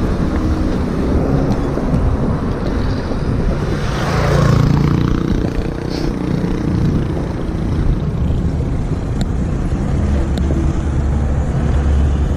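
Motorcycle engine running steadily while riding, with a louder swell about four seconds in.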